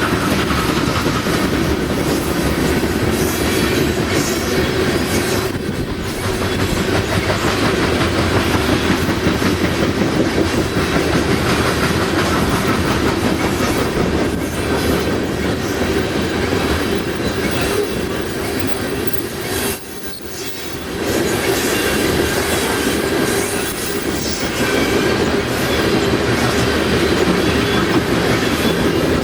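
Cars of a coal train rolling past: a steady loud rumble of steel wheels on rail with clickety-clack over the rail joints, briefly dropping about twenty seconds in.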